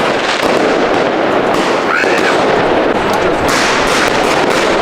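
Many fireworks and firecrackers going off at once, a dense, unbroken crackle of sharp bangs.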